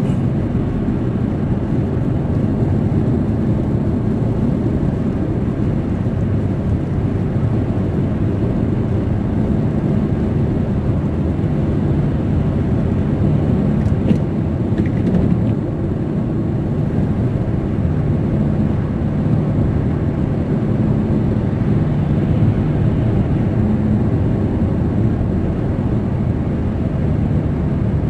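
Steady low rumble of road and engine noise inside a moving car's cabin, unbroken throughout.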